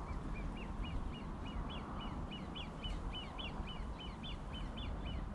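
A bird calling a long, even run of short, quick notes, about four or five a second, over a steady low rumble.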